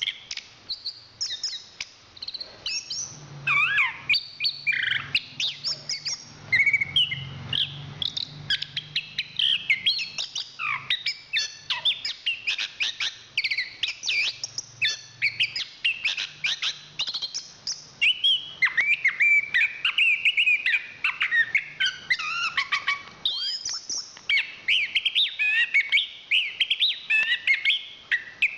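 Chestnut-capped thrush (anis kembang) singing a long, rapid stream of varied whistles, chirps and trills with only brief pauses.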